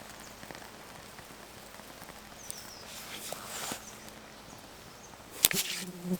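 An axe strike on firewood: one sharp, loud chop near the end, over soft rustling and a few faint bird chirps.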